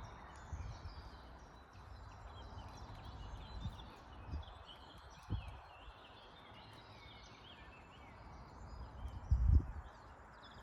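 Small birds chirping and twittering, many short quick calls over a faint low rumble, with a low thump about five seconds in and another near the end.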